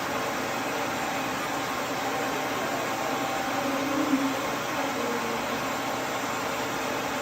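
Duz V3 pet dryer's blower running steadily, an even rush of air. A short, slightly louder tone rises over it about four seconds in.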